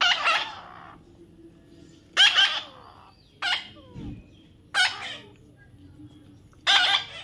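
A parrot squawking: five short, harsh calls spaced a second or two apart.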